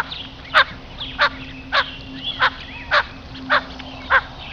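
Blue-winged teal calling: a steady series of short, sharp call notes about every 0.6 seconds, with a few fainter gliding whistles between them, over a faint steady hum.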